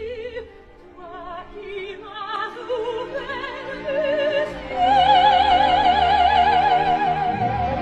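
Operatic singing with heavy vibrato: a run of short notes stepping upward, then one long high note held to the end.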